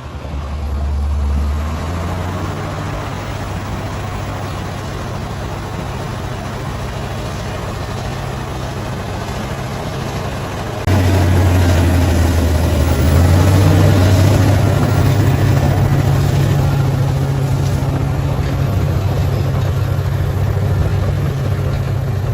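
Diesel engine of heavy earthmoving equipment running steadily. About halfway through it suddenly gets louder, with a deeper, stronger hum, and stays that way.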